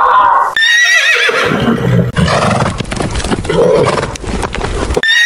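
A horse whinnying: a high, quavering call about half a second in, then a few seconds of rougher, noisier sound with low thuds, and another whinny starting near the end. A different wavering pitched sound cuts off just before the first whinny.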